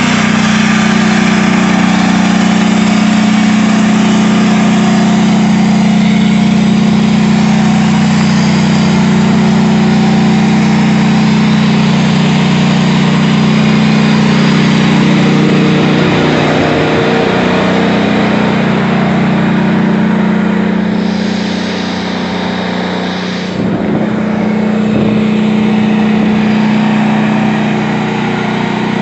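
Engine of a knocked-out tank, still running steadily with a heavy low drone. Its note wavers and drops briefly twice in the second half.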